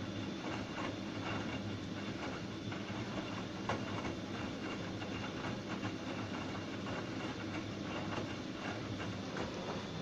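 Bosch Serie 2 WAB282ECO washing machine running: a steady drum-motor hum with irregular clicking and clattering from the turning drum.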